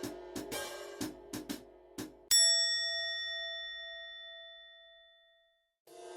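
Background music with a hi-hat beat that stops about two seconds in. It is followed by a single loud bell-like ding, which rings with several clear tones and fades away over about three seconds.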